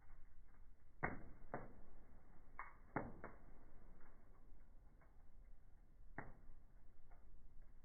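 Wood fire in a fireplace crackling, with irregular sharp pops a few seconds apart, the loudest about a second in, around three seconds in, and about six seconds in. The sound is dull, with no high end.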